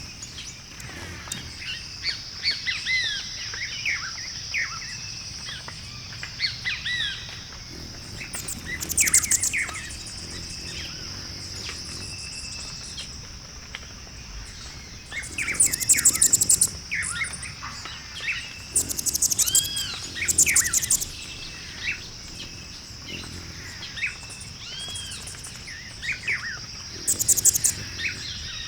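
Background chorus of wild birds, many short whistled chirps overlapping, over a steady high drone, with a handful of loud, rapid, high trills breaking in at intervals.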